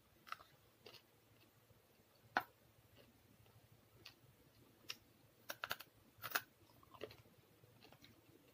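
Quiet close-up eating sounds: chewing with scattered wet mouth clicks and lip smacks, the sharpest about two and a half seconds in and a quick run of them around six seconds in.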